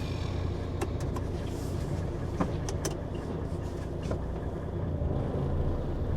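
Truck's diesel engine running, heard from inside the cab as a steady low hum, with a few sharp clicks in the first three seconds.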